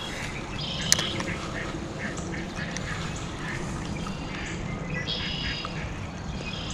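Several short bird calls over a steady background hiss, with one sharp click about a second in.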